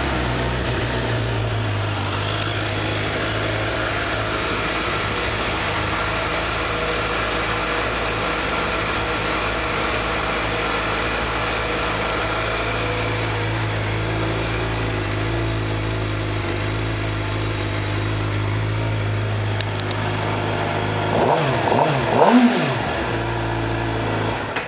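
2014 Suzuki GSX-R750's inline-four engine idling steadily, then revved twice in quick blips near the end.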